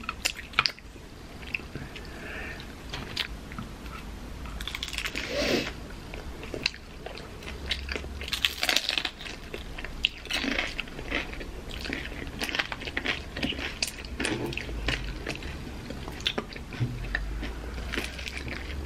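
Crispy fried taquitos being bitten and chewed close to the microphone: irregular crunches and chewing, with the louder bites about five and eight seconds in.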